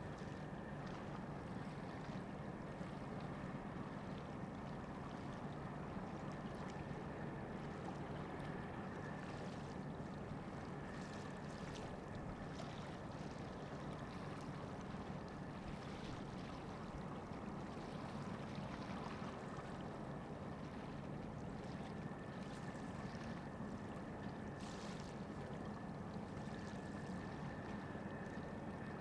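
Steady low drone of ship engines, with a faint constant high whine and brief irregular splashing hiss over it.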